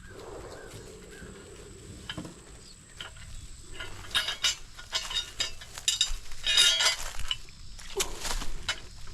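Irregular clinking and clattering, like hard objects being handled, starting about three seconds in and growing busier and louder.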